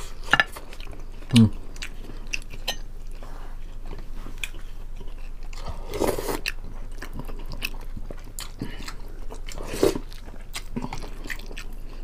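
Close-miked chewing and biting of fried chicken and boiled pork, made up of many small wet mouth clicks and smacks with a few louder bites and crunches spaced through it.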